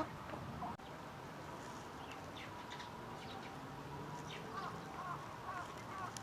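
A flock of Eurasian coots calling with short, repeated notes, more of them from about four and a half seconds in, over a steady background hiss.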